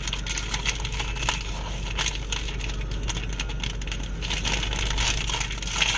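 Candy wrapper crinkling as a wrapped chocolate candy is opened, a dense run of small crackles and rustles.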